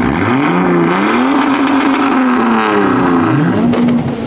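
Car engine revving: the pitch climbs over the first second, holds high, drops about three seconds in, then climbs again and holds.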